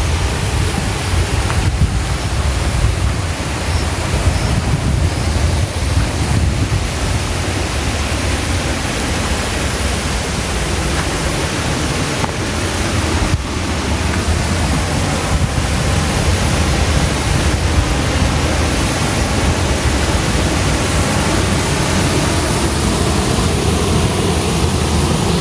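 Mountain waterfall rushing, a loud, steady roar of falling water without a break.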